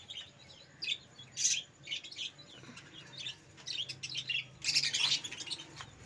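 Small birds chirping: many short, high chirps in irregular clusters, loudest about one and a half seconds and five seconds in.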